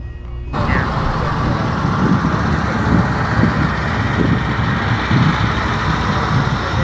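A vehicle engine running, with a low uneven pulsing over steady outdoor noise, after music cuts off about half a second in.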